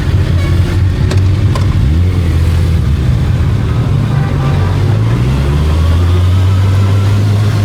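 Kawasaki inline-four sport motorcycle engine running on the move, with wind noise on the microphone. The engine note rises about two seconds in, then drops to a lower, steady note a little after five seconds.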